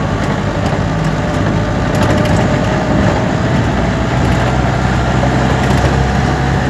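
A motor vehicle's engine running steadily under a constant rush of road noise, its note climbing slightly partway through.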